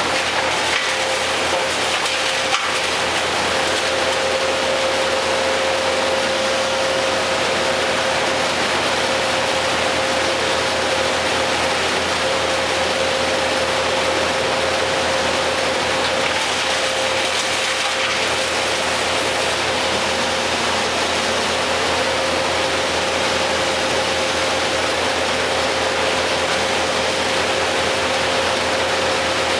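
Machinery running steadily at a constant pitch, with an even whine, and a single knock about two and a half seconds in.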